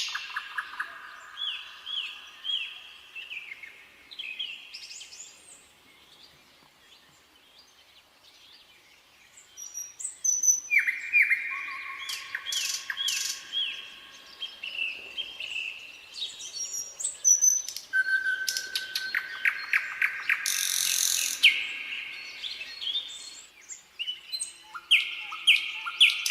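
Nightingale singing: phrases of rapidly repeated whistled and clicking notes, with a lull of a few seconds about a quarter of the way in before the song starts again.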